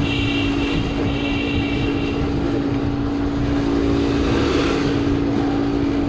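A steady machine hum with a constant low tone that holds at one level throughout.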